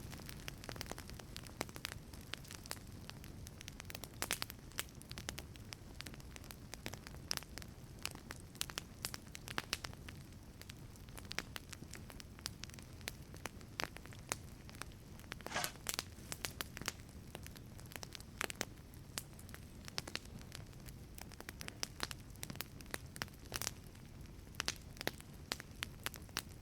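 Wood fire burning in a wood-fired pizza oven: a steady low rumble of flame with frequent sharp crackles and pops, and a brief hiss about halfway through.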